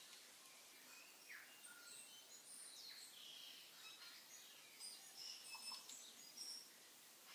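Faint, scattered high chirps and short whistles of birds over a quiet hiss, busier in the second half.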